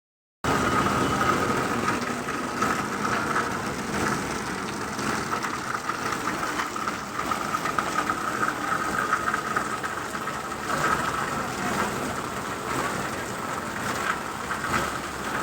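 Heavy rain pouring down: a steady wash of noise dotted with countless small drop impacts.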